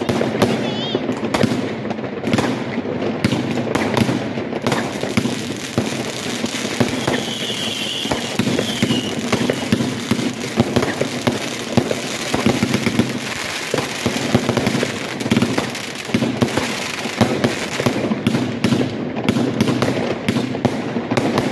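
Consumer aerial fireworks going off in rapid succession: a dense, unbroken barrage of bangs and crackling as the shells burst.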